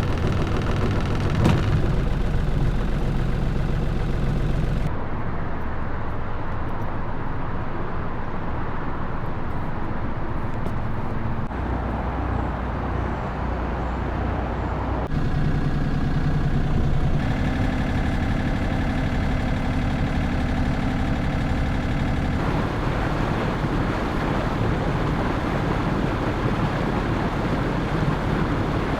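A boat's motor running steadily under way, with water and wind noise; the engine's tone changes abruptly several times.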